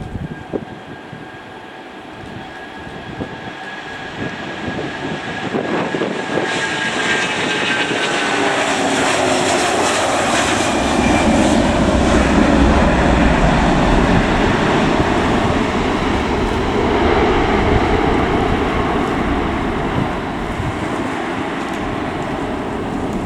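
Twin-engine Airbus A330-300 jet airliner at takeoff power, its engine noise growing louder as it approaches, with whining tones that fall in pitch as it passes, then settling into a steady loud rumble.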